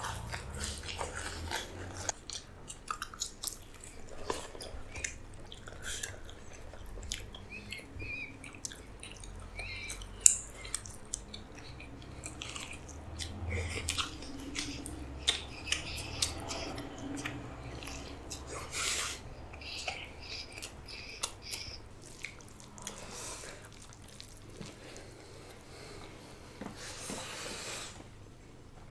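People chewing and biting food, with many short wet mouth clicks and crunches and a few louder bites.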